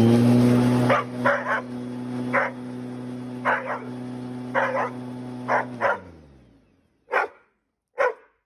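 Hungarian vizsla barking in short repeated barks at a running vacuum cleaner, a dog that is scared of hoovers. The cleaner's motor hum drops about a second in, then winds down to a stop around six seconds, and two more single barks follow in the quiet.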